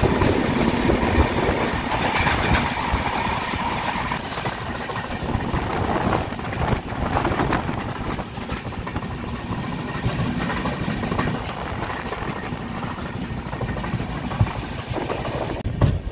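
Passenger train running along the track, heard from aboard: a steady rumble of wheels on rails with clattering over the rail joints.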